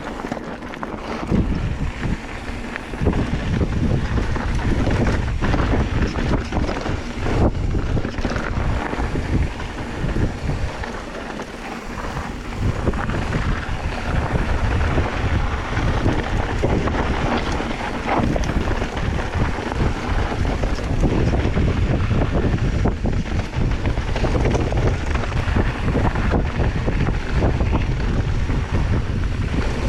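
Wind buffeting the microphone: a rough, gusting rumble, heaviest in the low end, easing briefly about a third of the way in before picking up again.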